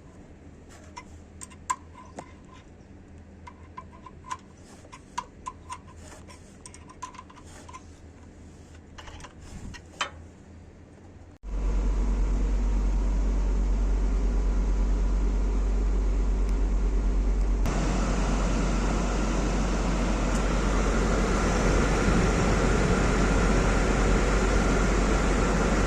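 Light scattered clicks and ticks in a quiet space, then a sudden change to a TATA bus running steadily with a loud low hum and fan noise; about six seconds later a higher hiss joins, like a blower coming on.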